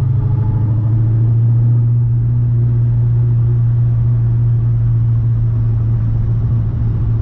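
2010 Camaro SS's 6.2-litre LS3 V8 running at a steady speed, a steady low drone without revving.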